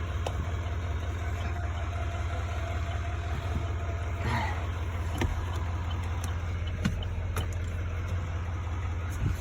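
A 6.6-litre turbo diesel in a pickup idling with a steady low drone, with a few faint clicks over it.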